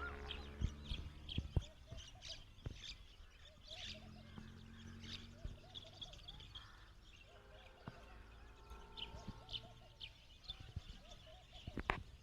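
Small birds chirping again and again, with runs of short lower calls. A low steady hum comes and goes, and there are a few sharp knocks.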